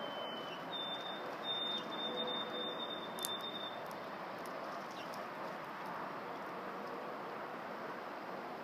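A bird whistling a high, thin note held on one pitch in several pieces for about three and a half seconds, with a sharp click partway through, over a steady background hiss.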